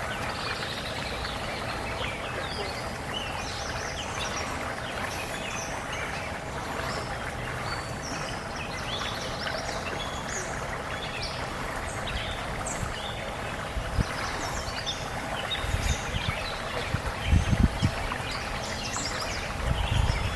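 Marsh ambience: many short bird chirps and calls over a steady background hiss, with a few low thumps near the end.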